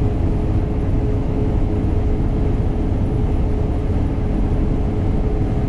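Combine harvester running steadily while cutting soybeans: an even low drone with a constant hum on top.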